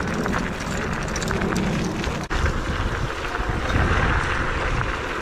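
Wind rushing over the microphone with a steady low rumble from riding an electric scooter, broken by a brief dropout a little past two seconds in.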